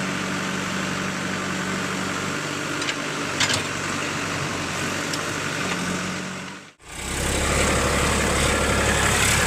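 Heavy diesel machinery engine running steadily, with a few light clicks near the middle. About seven seconds in, the sound breaks off for an instant and comes back louder and deeper.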